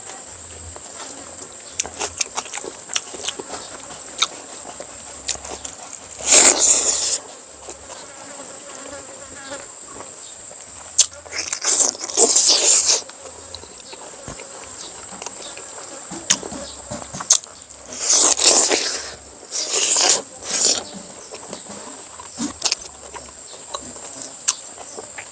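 Close-up eating sounds: soft chewing clicks throughout, with about five louder noisy bursts of a second or less. A steady high-pitched whine runs behind them.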